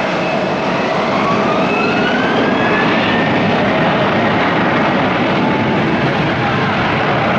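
Jet airliner engines during a landing, a loud steady rush with a whine that rises in pitch between about one and three seconds in.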